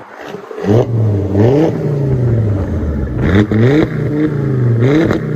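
2000 Volvo S70 Turbo's turbocharged inline-five running through a straight-piped exhaust, a 2¼-inch pipe from the factory catalytic converter exiting at the side with no muffler or resonator. The engine comes in loudly under a second in and is revved about four times, the pitch rising and falling with each rev.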